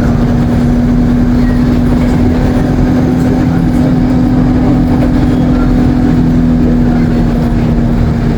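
Alexander Dennis Enviro 200 single-deck bus running at a steady speed: engine and Allison automatic gearbox giving a constant drone with one steady tone that holds pitch, over a low rumble.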